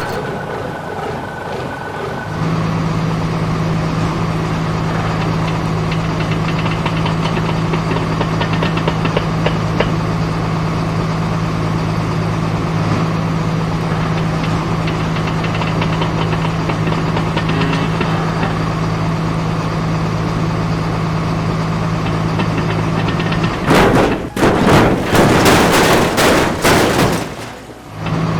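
Heavy construction-vehicle engine sound effect idling with a steady low hum. Near the end it is broken by a few seconds of loud, rough noise, and then the idle returns.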